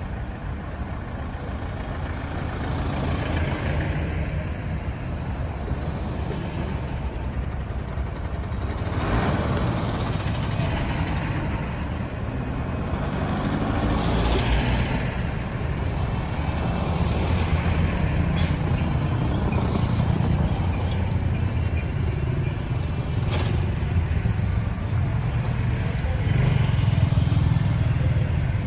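Road traffic: the engines and tyres of trucks, cars and motorbikes passing one after another, with a low engine hum. Louder pass-bys come about nine seconds in and again a few seconds later, the second falling in pitch as it goes by.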